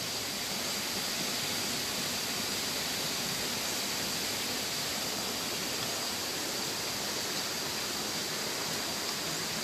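Water rushing steadily as it spills and flows along a small channel, like a little waterfall. A faint steady high tone sits above the water throughout.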